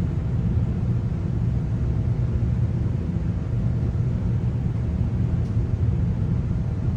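Steady low rumble of a moving GO Transit bilevel passenger coach, heard from inside: wheels running on the rails, with a faint steady hum.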